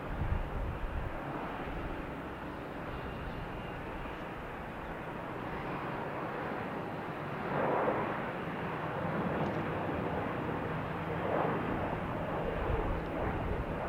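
Airplane engine noise: a steady rushing drone that swells a little about halfway through.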